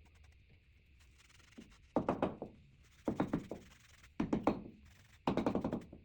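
Four rough, rattling strokes of a hand tool on the workpiece, evenly spaced about a second apart, each fading quickly.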